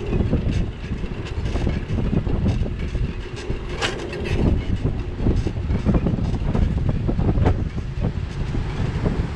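Riding noise picked up by a bicycle-mounted action camera: wind buffeting the microphone in a steady low rumble, with frequent rattles and knocks from the bike over the street surface.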